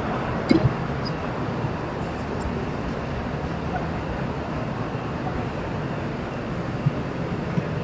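Steady vehicle and traffic noise: an even hiss with a few faint clicks and knocks.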